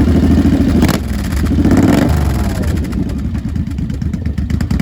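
2006 Suzuki Boulevard M109R's 1800 cc V-twin running loud through Freedom Performance slash-cut exhaust pipes shortly after starting. It is blipped once, rising about a second and a half in and dropping back toward idle.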